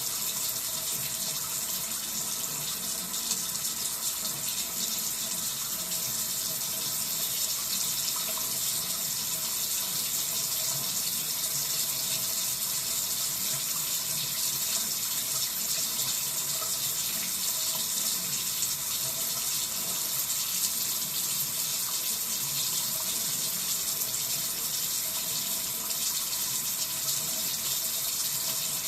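Cold water tap running into a sink with a steady hiss of flowing water, the flow the owner calls inconsistent.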